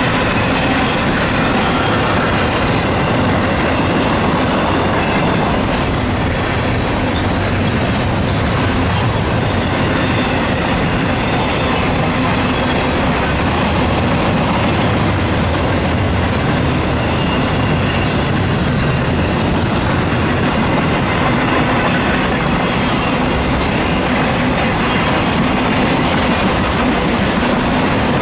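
Intermodal freight cars carrying double-stacked containers and highway trailers rolling past, a steady, loud noise of steel wheels on the rails.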